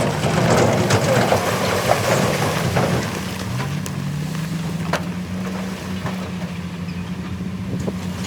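Heavy earthmoving machine's diesel engine running steadily, its pitch rising about three and a half seconds in. Rattling in the first few seconds and scattered metallic clanks, the sharpest about five seconds in.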